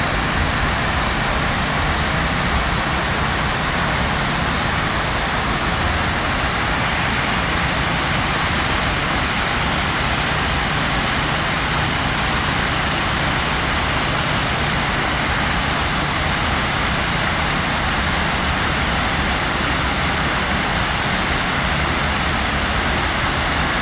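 Steady rushing water, an even unbroken roar with no separate events.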